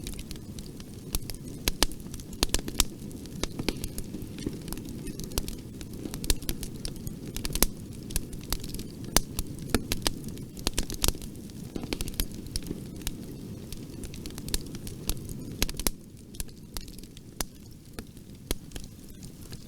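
Bonfire burning, with irregular sharp crackles and pops of burning wood over a steady low rumble of flame.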